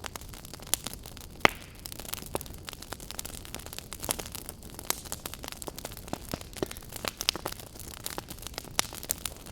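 Wood fire crackling in a steel fire pit: irregular sharp pops and snaps over a steady low hiss, the loudest pop about one and a half seconds in.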